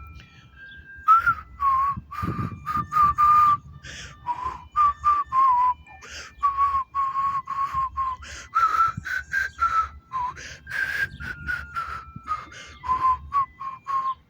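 A tune whistled as a string of short, clear notes, some sliding slightly in pitch.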